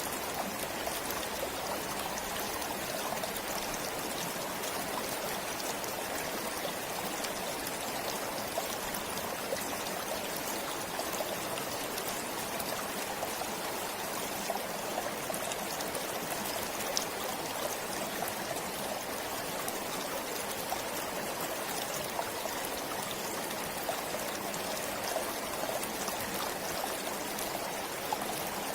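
Forest stream flowing steadily over stones, an even rushing with small splashes and trickles throughout.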